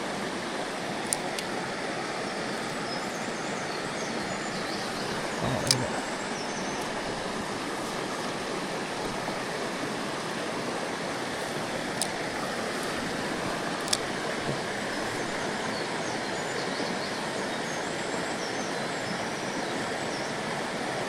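Mountain stream water rushing steadily, with four short sharp clicks, the loudest about six seconds in.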